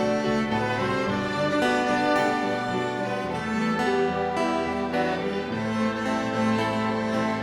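Violin ensemble playing an instrumental interlude of a hymn tune between sung verses: sustained bowed notes over a moving low bass line.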